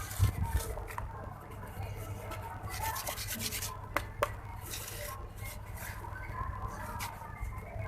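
Dipped red sand-cement chunks crumbling and grinding, an irregular gritty scratching with a few sharp crackles about three to four seconds in, over a steady low hum.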